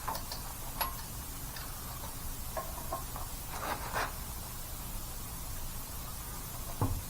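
A few light metallic clicks and taps from hand tools working the wheel lug nuts, over a steady low hum, with a duller knock near the end.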